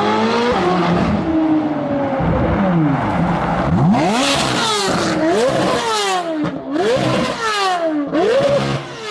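C8 Corvette Z06's 5.5-litre flat-plane-crank V8 revving hard through an aftermarket exhaust that is said to sound like a Ferrari V12. Its pitch climbs steeply and drops back four or five times, loudest and rasping about halfway through.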